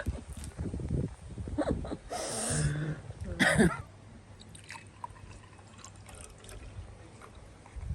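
Liquid trickling and splashing in two short bursts, about two and three and a half seconds in: a drink being handled at the table.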